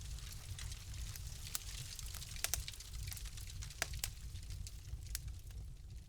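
Wood fire crackling: irregular sharp pops and snaps over a steady low rumble, with a few louder pops around the middle.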